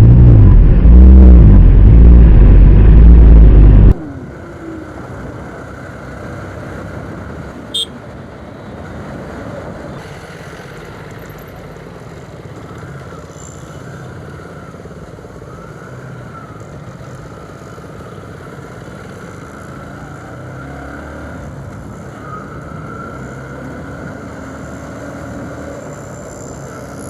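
Motorcycles on a highway: for about four seconds a very loud engine close by, its pitch rising and falling, cuts off suddenly; then a steady, much quieter motorcycle engine and road noise of riding along, with one short sharp sound about eight seconds in.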